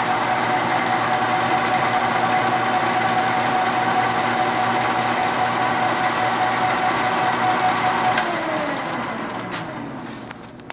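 South Bend 13" x 30" lathe running under power with the cross feed engaged, a steady gear whine. About eight seconds in it is switched off and winds down, the whine falling in pitch and fading.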